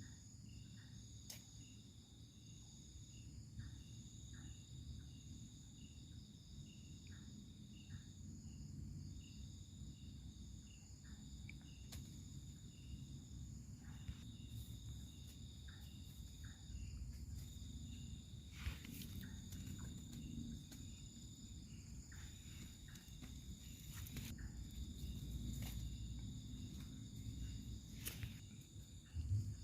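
Insects chirping: a faint high trill that stops briefly every second or two, over a steady higher whine. Under it is a low rumble with a few scattered clicks.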